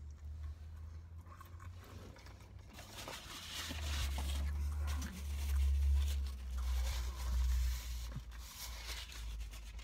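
Chewing a bite of fish sandwich, with the paper wrapper and a napkin rustling and crinkling in the hands, loudest in the middle seconds, over a low rumble.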